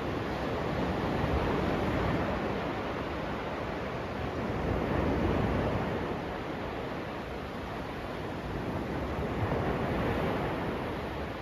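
Sea waves breaking on a sandy beach, a steady surf that swells and eases every few seconds.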